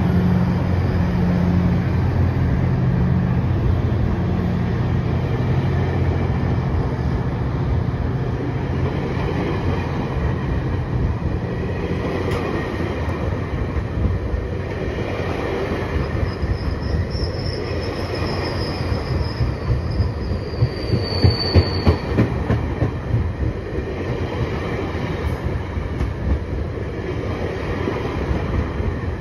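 GO Transit bilevel passenger coaches rolling past at low speed, wheels clattering on the rails. A steady low hum fades out about a third of the way through. A high-pitched wheel squeal comes in about halfway, followed by a run of louder wheel knocks.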